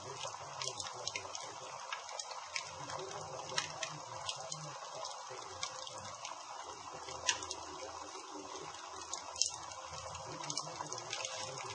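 Wood campfire burning: a steady hiss with frequent irregular sharp crackles, and a few louder pops scattered through.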